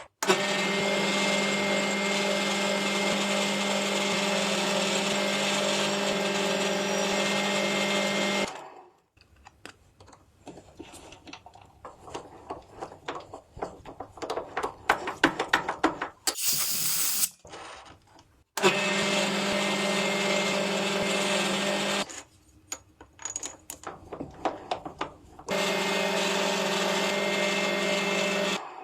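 A small electric power tool's motor runs at a steady speed three times, for about eight seconds, then about three, then about three. Between the runs come irregular clicks and knocks of parts and hand tools being handled, and a brief hiss about halfway through.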